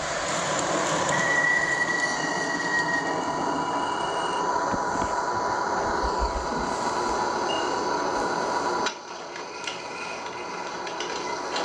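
MTH RailKing model R26/R28 Redbird subway train running, its Proto-Sound 3 speaker playing subway running sounds: a steady whine with high squealing tones over rolling noise, dropping off suddenly about nine seconds in.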